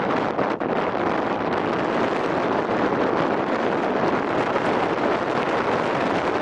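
Strong wind buffeting the microphone in a steady, dense rush of noise, the gusty wind ahead of an approaching typhoon.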